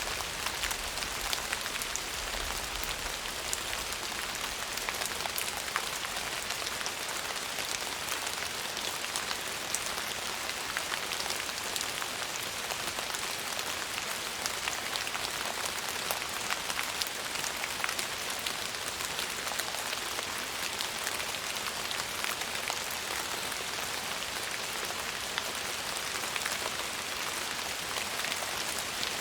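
Steady rain falling on a hard surface: a dense hiss of countless drops with small individual splashes all through.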